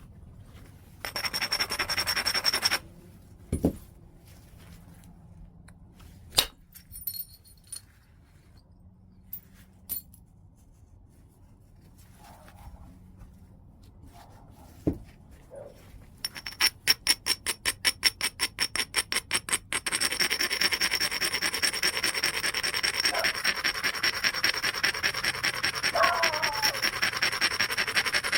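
White chert being worked by flintknapping. A few sharp single clicks ring out across the middle, like blows or flakes snapping off. Near the end comes a long stretch of rapid scraping on the stone, first as quick separate strokes and then continuous.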